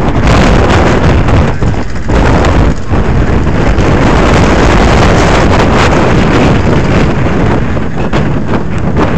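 Heavy wind buffeting the microphone in gusts, over the engine noise of autograss race cars running on the grass track.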